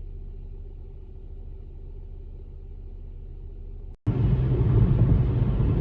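Steady low rumble of a vehicle on the move. It cuts out for an instant about four seconds in and comes back louder.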